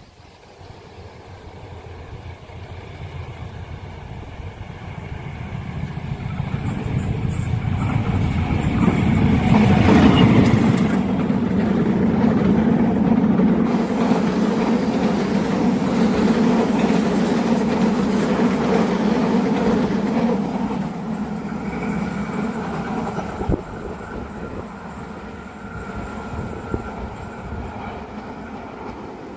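Train passing at speed over a curved level crossing: the sound builds over the first ten seconds, peaks as the train goes by, runs on strongly for about ten seconds more as the cars pass, then fades.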